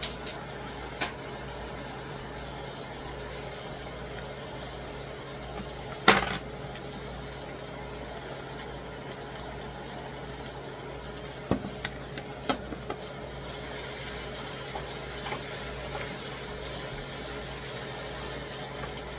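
Pork and shredded red cabbage sizzling steadily in a skillet over a gas flame, under a low steady hum. A loud sharp knock comes about six seconds in, and a few light clinks of kitchen utensils around twelve seconds in.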